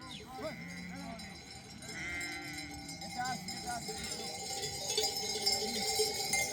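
A flock of sheep bleating, with the bells hung on the animals clanking and ringing; the bells grow louder and more continuous from about four seconds in.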